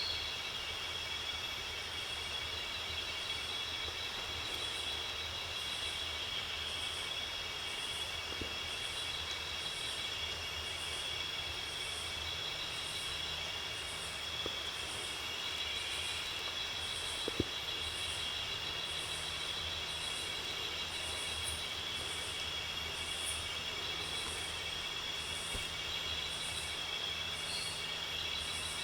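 Rainforest insect chorus: steady high-pitched trilling, with a higher pulsing insect call repeating about once a second, over a low steady hum.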